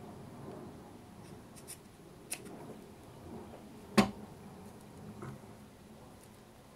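Paper craft pieces being handled and shuffled on a work table, soft rustling with a few light clicks and one sharp tap about four seconds in.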